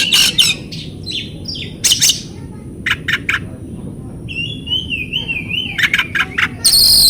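Oriental magpie-robin singing: wavering whistled phrases broken by sharp, snappy notes, ending in a loud harsh scolding burst near the end.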